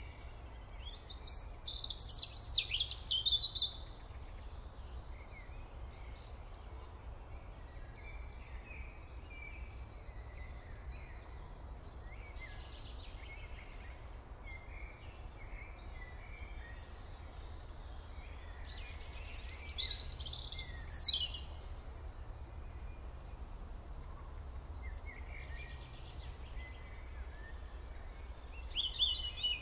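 Birds chirping, with louder bursts of song about a second in, around the middle and near the end, and a faint high note repeating steadily, over a low steady hum.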